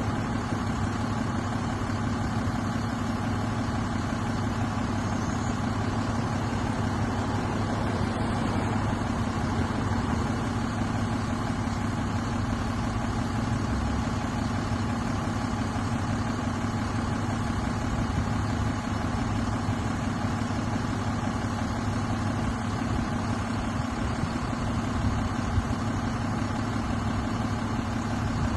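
DAF CF 290 truck's six-cylinder diesel engine idling steadily.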